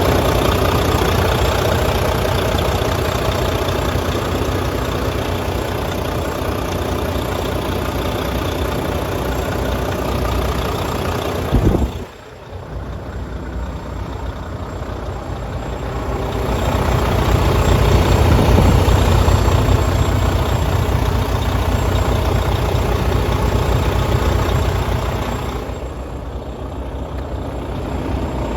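Diesel engine of a Volvo VNL semi tractor idling with a steady low rumble. About twelve seconds in there is a short loud burst, after which the engine is quieter for a few seconds before it grows louder again.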